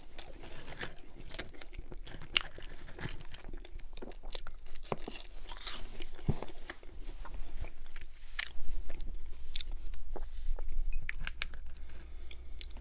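Close-miked chewing of a mouthful of McDonald's french fries, delivered and cooled down, with irregular wet crunches and mouth clicks.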